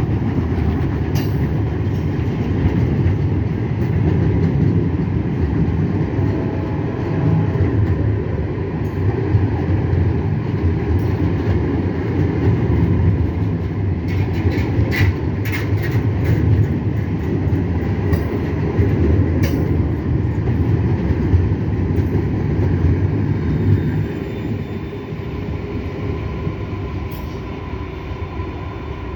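Loaded freight train of steel-coil wagons rolling past, a heavy steady rumble of wheels on rail with sharp clicks and clanks as wheels cross rail joints, a cluster of them about halfway through. The rumble eases somewhat in the last few seconds.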